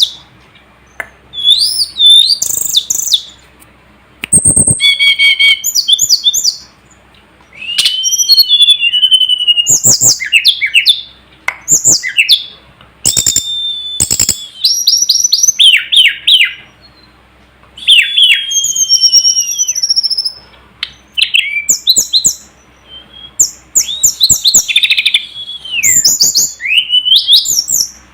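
A tledekan gunung (sulingan, the little pied flycatcher) singing. Its phrases are high, quick, whistled notes that slide up and down and break into fast trills, repeated every few seconds with short pauses between.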